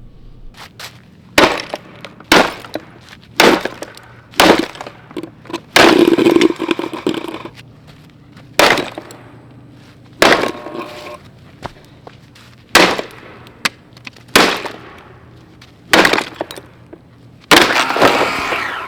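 A Shark Rotator XL vacuum cleaner being smashed apart: about a dozen loud, sharp blows a second or two apart, cracking its plastic housing. Two of them run on for over a second as crashing and breaking, about six seconds in and near the end.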